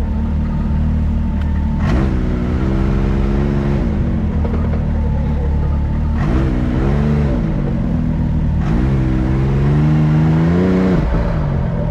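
Can-Am X3 side-by-side engine running under a low steady drone, revving up and back down three times as the throttle is worked on the trail.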